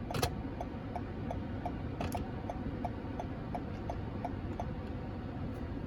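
2022 Toyota Highlander's turn-signal indicator ticking steadily, about three ticks a second, with a flashing left turn signal. Two louder clicks come about a quarter second in and about two seconds in.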